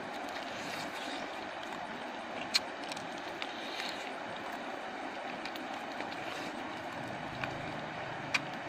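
Steady rushing outdoor background noise with a few sharp clicks, the loudest about two and a half seconds in, from chewing crunchy grilled pig ear.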